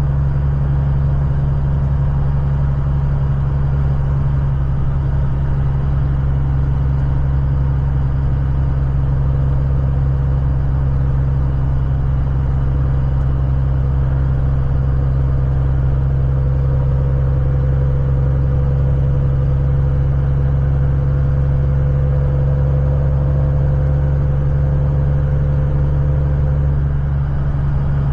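Steady low drone of a Kenworth semi truck's engine and road rumble, unchanging throughout.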